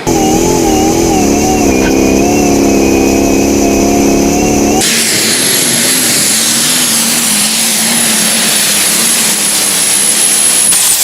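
Pulling-tractor engines running flat out under load, in two clips joined by an abrupt cut about five seconds in. The first engine's pitch wavers. The second carries a high, steady whine over a slowly sagging engine note, and the whine dips just before the end.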